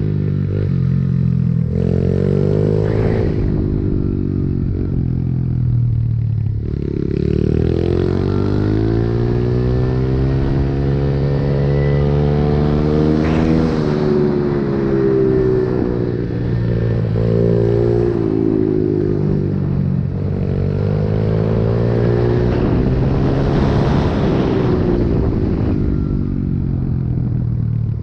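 Pit bike engine revving hard and easing off again and again, its pitch climbing and dropping in repeated sweeps of a few seconds each as the bike is ridden through a run.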